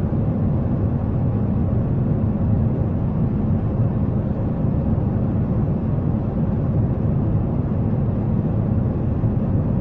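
Jet airliner cabin noise: a steady, even low drone of engines and airflow.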